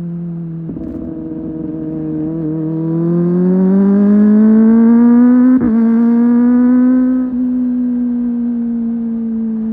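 Kawasaki ZX25R SE's 250 cc inline-four engine under way, its note climbing steadily over a few seconds as the revs rise. The note breaks for an instant about five and a half seconds in, holds high, then eases down slowly over the last few seconds.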